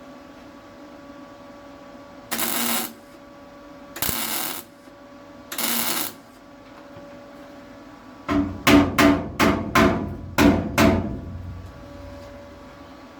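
About eight quick hammer blows on steel panelwork, ringing, with the strikes close together. Before them come three separate short bursts of harsh noise, each about half a second long.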